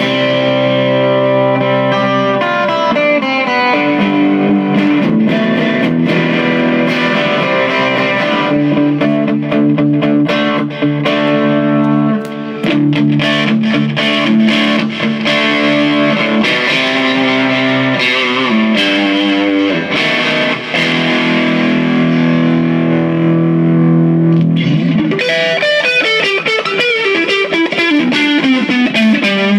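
Overdriven electric guitar (a Squier Classic Vibe Stratocaster) played through boost and overdrive pedals into an amp with delay. Held chords and single notes ring out, and about 25 seconds in it turns to a quicker descending run with echoing repeats.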